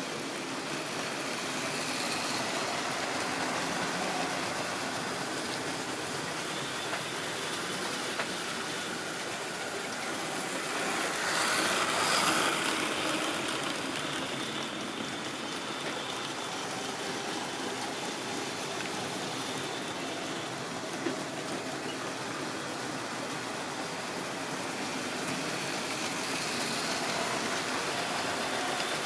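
Model railway train running around the track: a steady whirring and rolling that grows louder as it passes close about twelve seconds in, then fades and swells again near the end, with an odd sharp click from the wheels on the rails.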